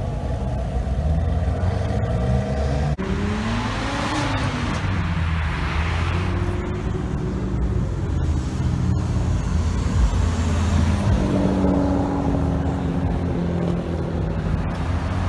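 Car engines running as cars drive out past, with low exhaust rumble throughout. About three seconds in one engine revs up, rising in pitch, and a car passes loudly a few seconds later.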